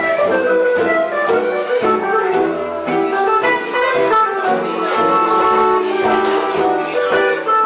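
A live band playing jazz-style music: a melody line over guitar accompaniment, with no break.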